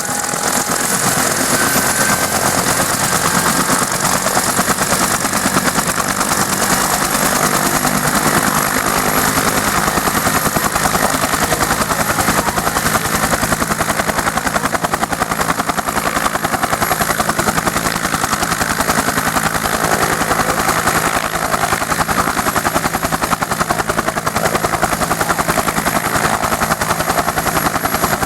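UH-1 Huey helicopter's turboshaft engine and rotor running steadily, with a rapid, even beat of the blades; a faint turbine whine rises in the first couple of seconds.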